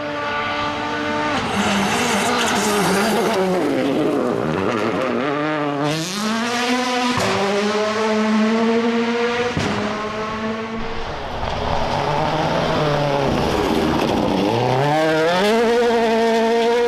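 A World Rally Car's 1.6-litre turbocharged four-cylinder engine at full attack on a stage, revving hard and climbing through the gears with short breaks at each shift. Twice it drops off as the driver lifts, then builds again.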